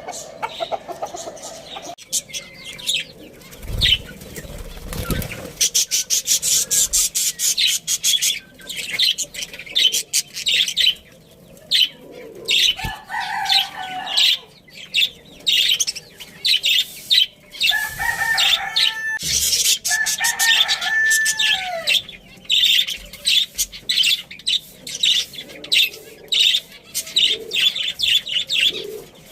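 Chickens and small cage birds together: dense, rapid high chirping and fluttering throughout, with a rooster crowing once, in two parts, about eighteen seconds in.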